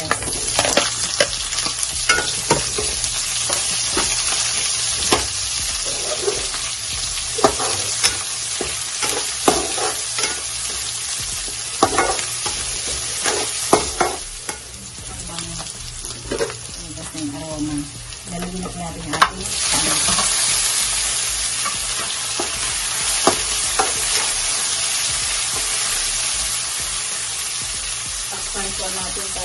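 Onions, garlic and ginger sizzling in hot oil in a nonstick wok, stirred with a metal ladle that scrapes and clicks against the pan. The sizzle turns louder about two-thirds of the way through.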